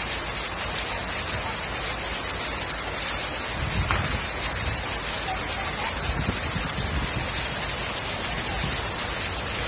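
Heavy rain pouring down steadily, a dense even hiss, with brief low rumbles about four and six seconds in.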